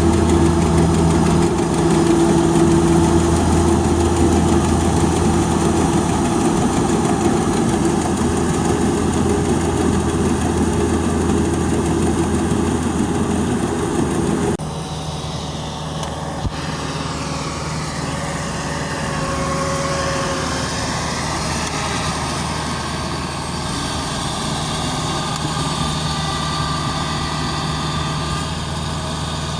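Engine of a harvesting farm machine running steadily. About halfway through the sound drops slightly and changes its pitch pattern abruptly, then runs steadily again.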